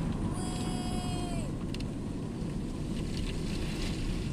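Automatic car wash running, heard from inside the car: a steady low rumble of water spray and machinery. About a third of a second in, a single held high tone sounds for about a second over it.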